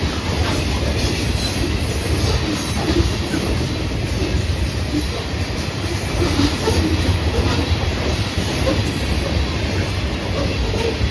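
Freight cars of a Florida East Coast train rolling past, a steady rumble and clatter of steel wheels on the rails.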